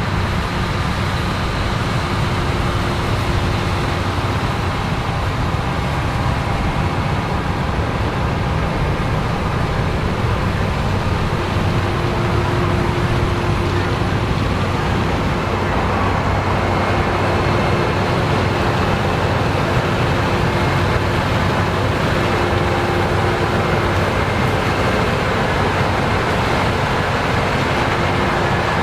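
Heavy farm machinery at work: a large diesel engine running steadily under load, with a low hum and a few whining tones that fade in and out.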